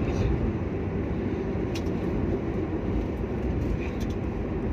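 Steady low rumble of road and engine noise inside a moving car's cabin, with a faint tick about two seconds in and another near the end.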